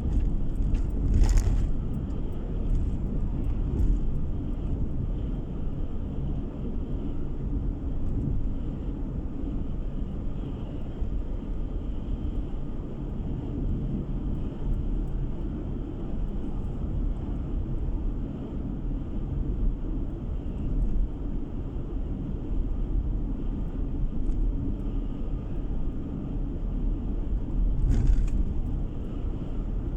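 Car driving along the road, heard from inside the cabin: a steady low rumble of tyres and engine, with two brief louder rushes, one about a second in and one near the end.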